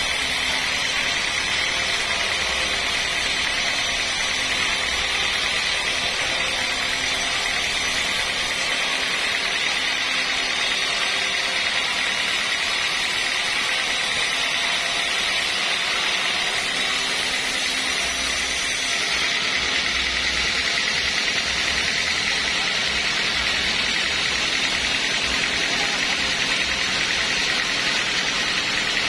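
Sawmill machinery running steadily, a continuous mechanical noise.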